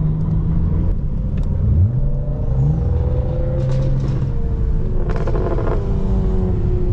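Nissan Altima car engine running at low speed in slow traffic, rising briefly in pitch about two seconds in as it is given some throttle. A short noisy burst about five seconds in.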